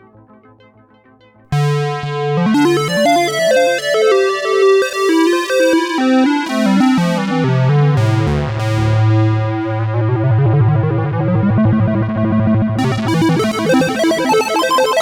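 Sequential Prophet-6 six-voice analog polyphonic synthesizer playing with no external effects. A quiet sound fades out, then a loud patch comes in suddenly about a second and a half in, with a line of notes stepping downward, a held low bass note that pulses rhythmically, and bright high tones entering near the end.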